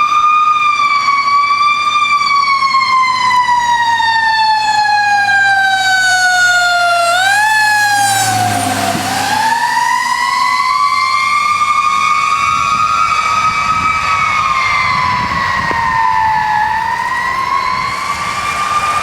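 Fire engine siren wailing in long, slow sweeps: the pitch falls steadily for about seven seconds, rises again from about nine seconds in, then dips once more near the end.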